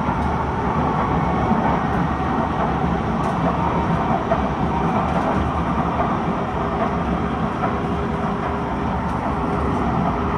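Kawasaki C151 metro train heard from inside the car while running between stations: a steady rumble of wheels on rail and running gear.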